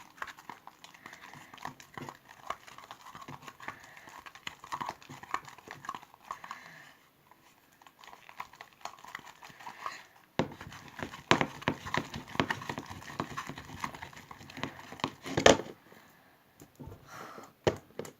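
Over-activated, soaking-wet slime being worked, making dense squelching and sticky clicking. It eases off about seven seconds in and comes back louder about ten seconds in. The slime is wet and stringy, which the maker puts down to too much activator.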